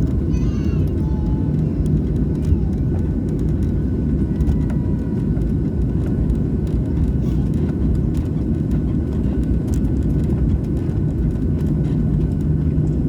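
Steady low rumble of a jet airliner's engines, even in level throughout, with a steady hum beneath it.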